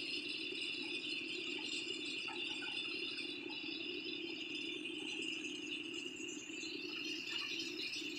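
Caterpillar excavator running steadily as it works rock, with a continuous rattling.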